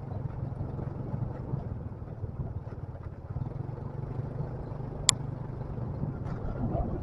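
Motorcycle engine running steadily while riding, heard from on the bike, with a single sharp click about five seconds in.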